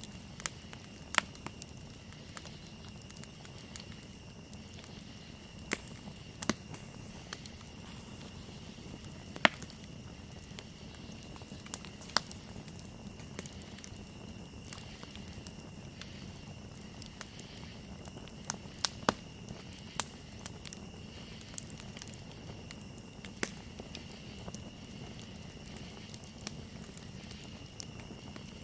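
Campfire crackling, with sharp irregular pops a few seconds apart, over a steady high-pitched trill of night insects.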